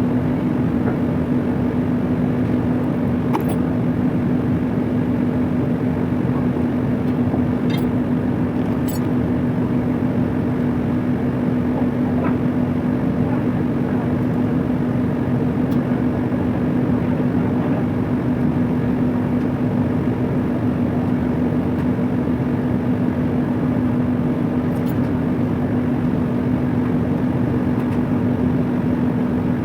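Steady drone of industrial machinery with a strong low hum, unchanging throughout, with a few faint clicks or taps over it.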